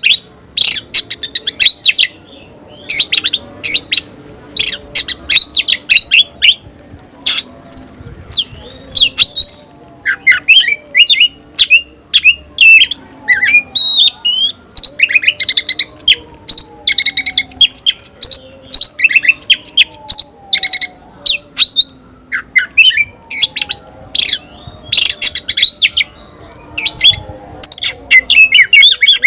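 Oriental magpie-robin (kacer) singing loudly in rapid bursts of sharp chirps and trills with short pauses between, a fainter series of slow falling whistles underneath.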